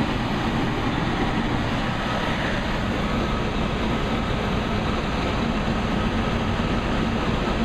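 High-efficiency gas furnace running during a call for heat, its inducer motor and lit burners making a steady rushing hum with a faint low tone.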